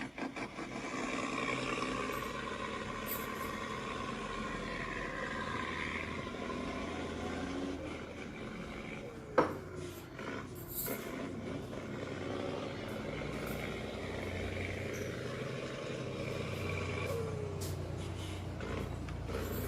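Large truck's engine running steadily, with a single sharp knock about nine seconds in.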